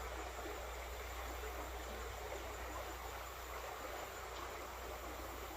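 Mountain creek water running, a steady rushing with no breaks.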